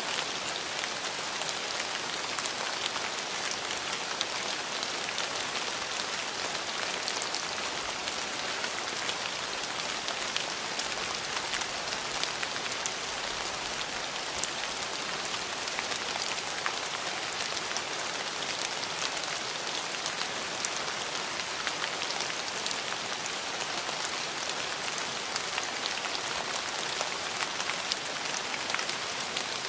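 Steady rain falling on hard surfaces: a dense, even hiss scattered with the ticks of individual drops.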